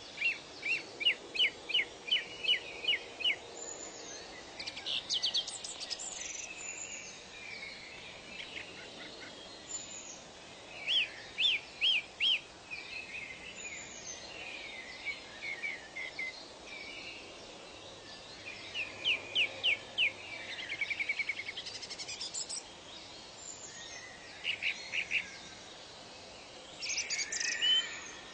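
Songbirds singing, a burst of quick, sharp repeated notes every few seconds, over a faint steady background hiss.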